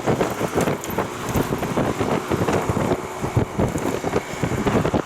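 Wind buffeting the microphone while riding a bicycle: a loud, uneven, gusty rumble.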